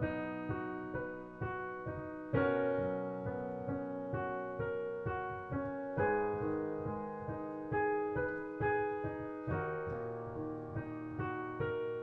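Piano playing a B major broken-chord accompaniment in steady, even eighth notes, low bass notes sounding under the higher chord tones, with no pause.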